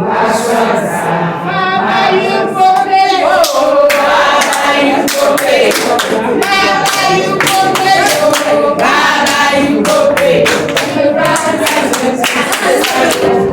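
A group of women singing together, accompanied by steady rhythmic hand-clapping.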